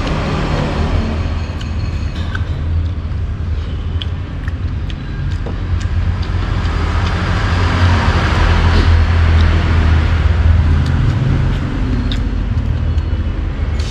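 Road traffic: a steady low engine rumble, swelling louder about eight to eleven seconds in as a vehicle passes close by, with a few light clicks over it.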